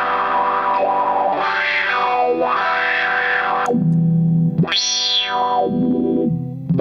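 Electric guitar played through a Madbean Drunken Dragon overdrive pedal, a clone of the Lovepedal Eternity. Distorted chords ring out while their tone sweeps up and down, and a lower chord is struck a little under four seconds in.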